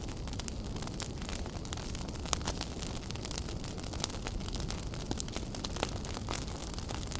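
Wood fire burning in a fireplace: a steady low rumble of flame with frequent sharp crackles and pops, a few louder than the rest.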